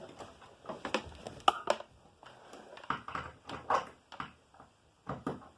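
Scattered clicks, knocks and rustling from hands working a vacuum cleaner's plug, cord and hose; the vacuum's motor is not running.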